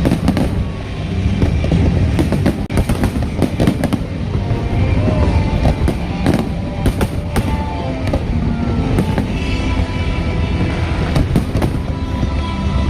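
Fireworks going off in a rapid, irregular run of sharp bangs and crackles over a continuous low rumble, with music playing along.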